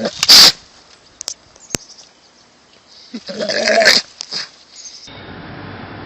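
An animal's calls: a short loud noisy burst right at the start, then about three seconds in a louder pitched cry lasting nearly a second, with a few clicks between.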